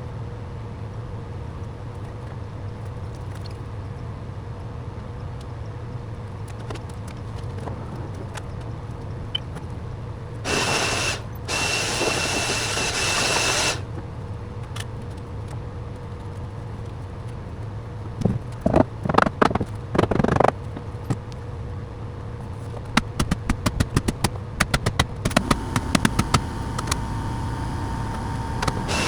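Workshop tool sounds over a steady low hum: a power tool runs for about three seconds near the middle, a few knocks follow, and then a quick run of light taps or clicks near the end.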